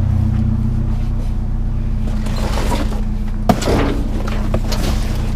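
A steady, low engine hum runs throughout. About three and a half seconds in comes a sharp knock, then about a second of clattering as objects are handled.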